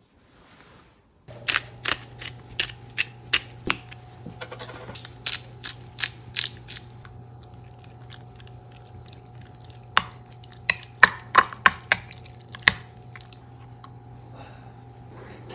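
Kitchen food prep: a knife knocking sharply on a cutting board in two runs, over a steady appliance hum that starts about a second in.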